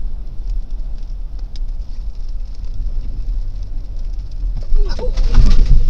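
Steady low rumble of a car's engine and tyres on the road, heard from inside the car, with a light hiss. About five seconds in it gets louder, with a few short pitched sounds.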